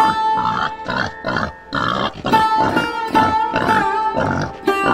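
Wild boar grunting in a quick run of short grunts, about two or three a second.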